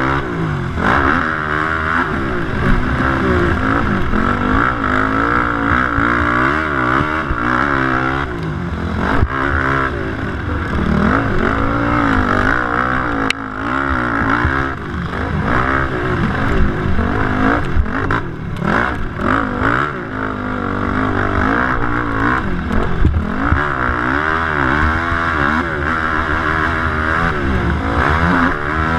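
A Yamaha YFZ450 sport quad's single-cylinder four-stroke engine racing: revving up and backing off over and over, the pitch rising and falling every second or so. A few sharp knocks come through along the way.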